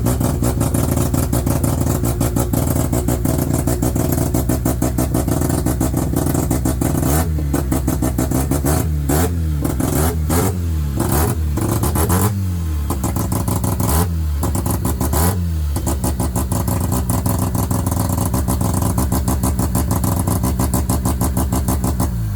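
Mazda RX-7's rotary engine running just after being started, its exhaust a rapid, even pulsing. Partway through the throttle is blipped several times, the revs rising and falling, before it settles back to a steady idle.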